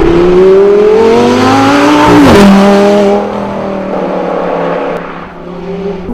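Audi R8's 5.2-litre V10 engine, through a Capristo aftermarket exhaust, accelerating hard with a rising note. About two seconds in the pitch drops sharply, as at an upshift, and the engine runs on at a steadier, lower note that fades somewhat near the middle.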